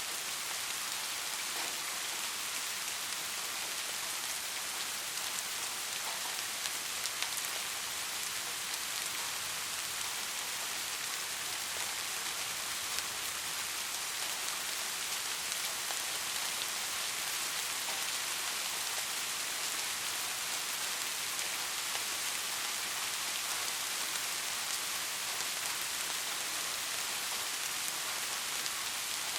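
Steady rainfall, an even hiss of rain falling on a surface, with scattered faint drop ticks.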